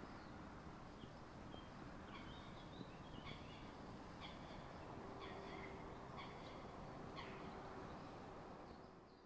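Faint short bird calls, repeated at irregular intervals, over a steady low background noise; a faint steady hum joins about five seconds in, and everything fades out near the end.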